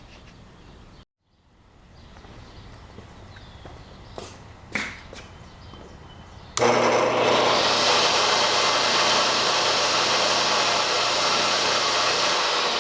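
Restored vintage Sears Dunlap tilt-top table saw switched on, its 1 hp electric motor starting abruptly a little past halfway through and running steadily with a low hum under a loud, even rushing noise. A few light clicks come before it starts.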